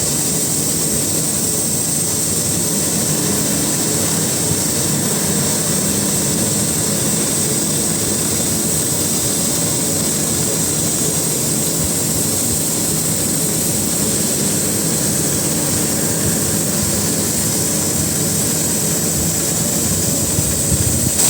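Cutting torch running continuously, a steady roar with a strong high hiss.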